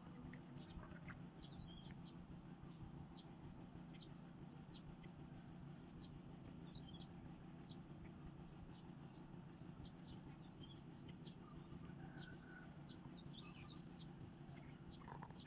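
Faint, scattered bird chirps over a low, steady background hum.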